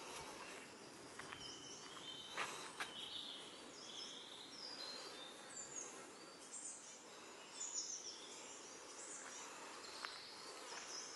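Faint woodland birdsong: scattered short chirps and twittering phrases over a steady outdoor hiss, with a few soft knocks.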